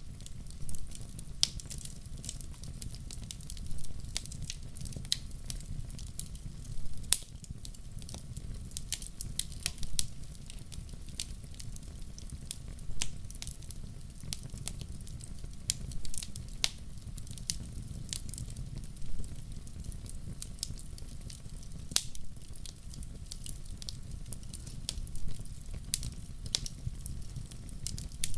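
Wood fire burning in a fireplace: a steady low rumble with irregular crackles and pops from the burning logs, a few of them sharper and louder.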